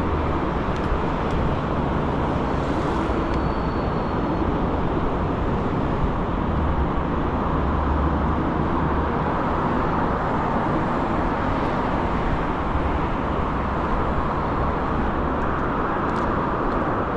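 Steady wind rush on the microphone with tyre and road noise from a moving electric scooter.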